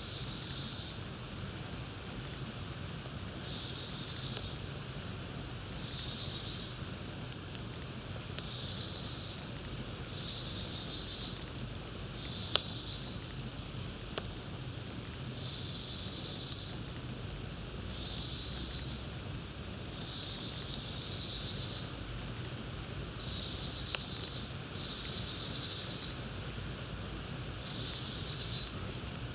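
Campfire crackling over a steady hiss, with sharp pops now and then, the loudest about twelve seconds in. A high, pulsing call repeats about every second or two.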